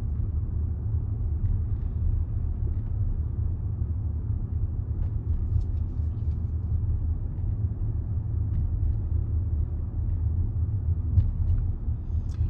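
Steady low rumble of engine and tyre noise inside a Range Rover's cabin as it drives along a road, with one small knock about eleven seconds in.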